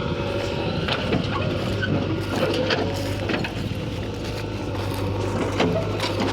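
Heavy diesel machinery running steadily during loading and digging work, with scattered short metallic clanks and knocks. A deeper steady hum joins about two seconds in.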